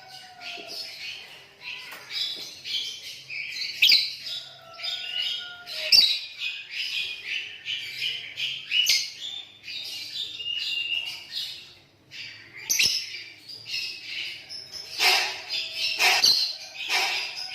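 Lovebirds chattering in a fast, unbroken stream of high chirps and squawks, with louder bursts near the end.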